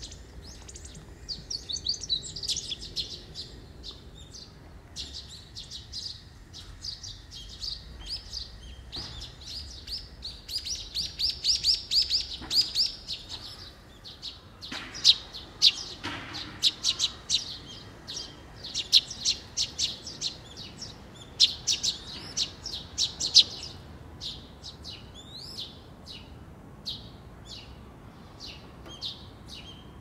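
Birds chattering: quick runs of short, high chirps, densest through the middle and thinning out near the end, picked up close through a parabolic microphone.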